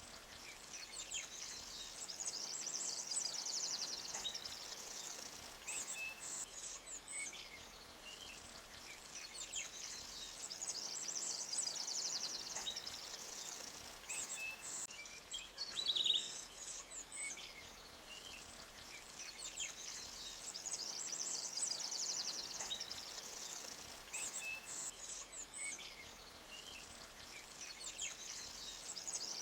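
Forest stream ambience: a faint steady hiss of flowing water under small birds chirping and high trilling calls that swell and fade in waves about every ten seconds. A louder single bird call comes about sixteen seconds in.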